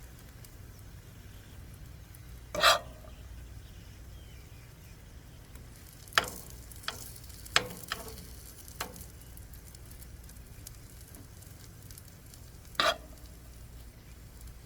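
Chicken filling and tortilla frying in a buttered pan with a steady soft sizzle. A serving utensil clinks sharply about seven times as the filling is spooned on: once loudly early on, in a quick cluster midway, and once more near the end.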